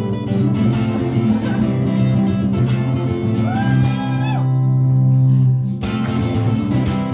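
Acoustic guitar strummed over a steady low bass note, an instrumental stretch of a live song. A short note bends in pitch about three and a half seconds in, and the strumming breaks off for a moment near six seconds before starting again.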